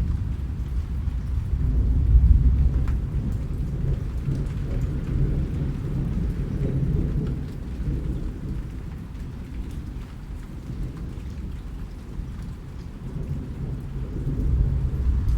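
Rain falling steadily, with a low rumble of thunder that swells about two seconds in and again near the end.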